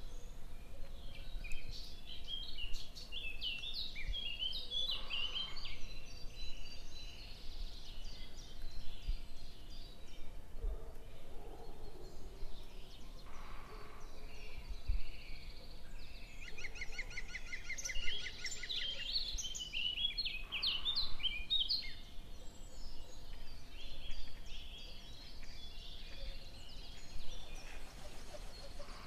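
Small birds chirping and twittering in bursts, with a quick run of rapid, evenly spaced notes a little past the middle, over a steady low rumble.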